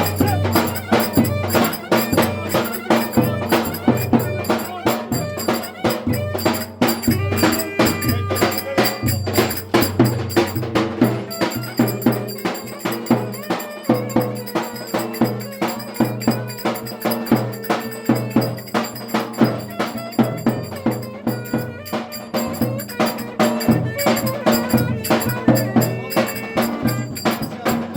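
Turkish folk dance music (oyun havası) played live: a fast, even percussion beat of sharp clicking hits under a held melody line.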